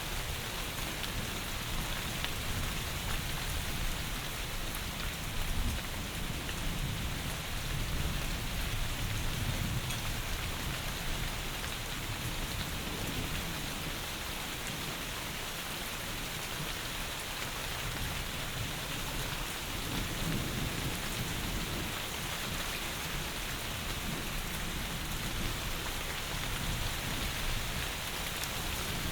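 Heavy rain falling in a steady dense hiss. Low rumbles of thunder swell and fade under it, about a third of the way in and again about two-thirds through.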